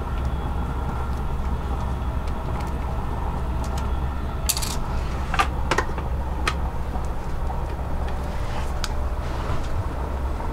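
SJ InterCity passenger train running, heard from inside the carriage: a steady low rumble with a few short clicks and rattles in the middle.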